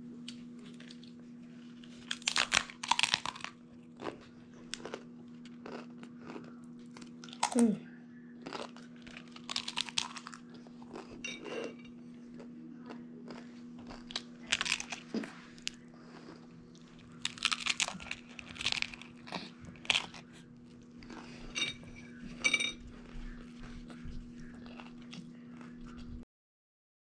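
Someone eating tacos close to the microphone: irregular crunching bites and chewing over a steady low hum, cutting off suddenly near the end.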